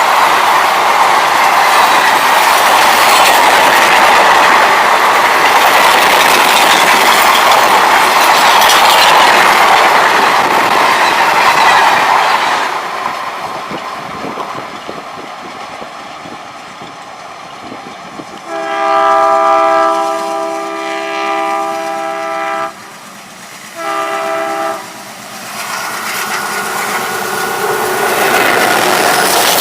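Train running past with loud rushing wheel noise that fades after about twelve seconds. A diesel locomotive horn then sounds one long multi-tone blast of about four seconds and a short second blast, and train noise builds again near the end.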